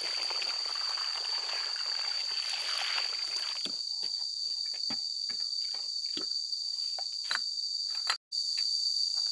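Insects keeping up a steady high-pitched drone. For the first few seconds there is a rustling noise under it, then a run of scattered sharp clicks and taps. The sound drops out for a moment near the end.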